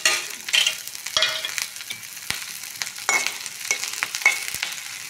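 Chopped green chillies sizzling in hot mustard oil with fried onions in an iron kadhai, while a metal spatula stirs them, scraping and clinking against the pan many times.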